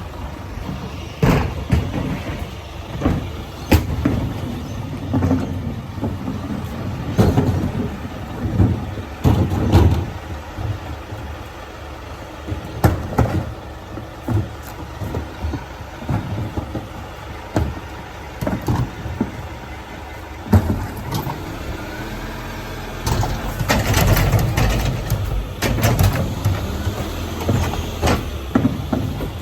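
Garbage truck working, its engine running under repeated bangs and clanks. A low whine rises and falls about two-thirds of the way through.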